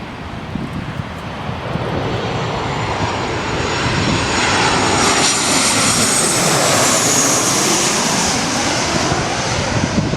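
Jet airliner passing low overhead: engine rush building up to a peak, with a high engine whine that drops slightly in pitch as it goes by.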